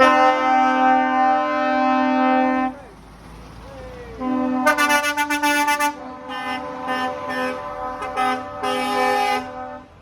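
Lorry air horns sounding as trucks pass: one long blast of about three seconds, then after a short pause another long blast, a string of short toots, and a final longer blast.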